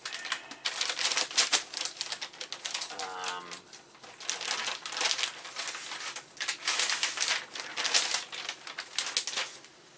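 Plastic bag crinkling and rustling in rapid, irregular crackles as a computer logic board is unwrapped by hand.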